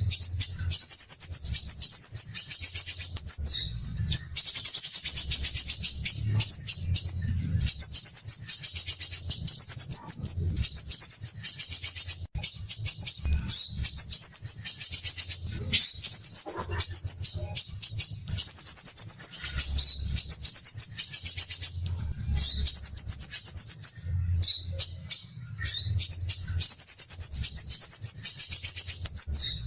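Crimson sunbird singing its dense, coarse, rapid trilling song in high-pitched phrases of one to two seconds, with short breaks between them.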